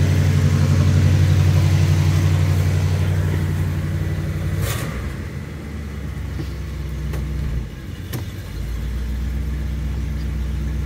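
1972 Oldsmobile Custom Cruiser's Rocket 455 V8 running on fast idle after a cold start. About halfway through, as the choke is knocked down, the idle drops and it settles into a lower, steady idle. A couple of sharp clicks come with the change.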